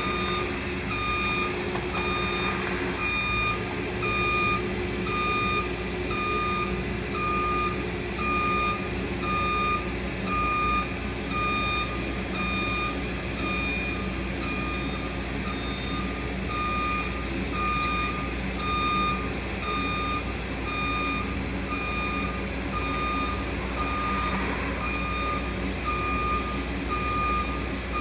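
Backup alarm of demolition heavy equipment beeping steadily about once a second over the running diesel engine of the machine.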